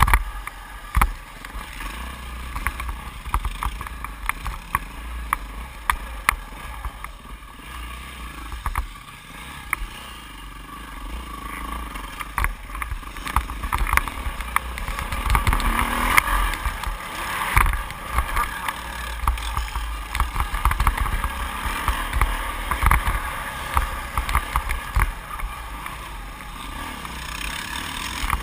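2008 Yamaha YZ450F four-stroke single-cylinder engine revving up and down while ridden round a motocross track, louder from about halfway through. Frequent knocks, with wind rumble on the microphone.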